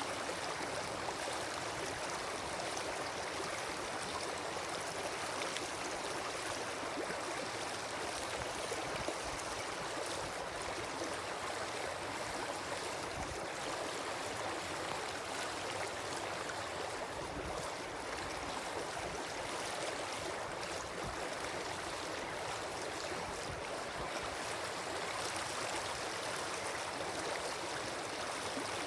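Wood campfire burning, with a steady rushing hiss and scattered small crackles.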